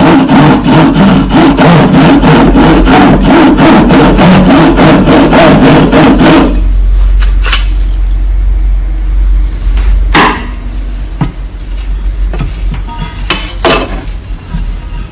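Rapid, regular hammering, about six blows a second, that stops after about six seconds. A low steady hum follows, with a few single knocks.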